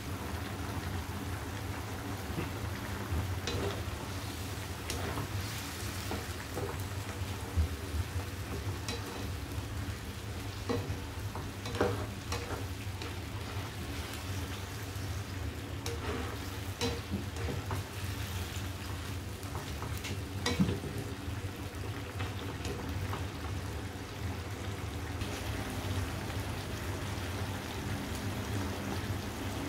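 Chicken pieces sizzling and bubbling in soy sauce in a nonstick wok as the sauce reduces, with a spatula now and then knocking and scraping against the pan. A steady low hum runs underneath.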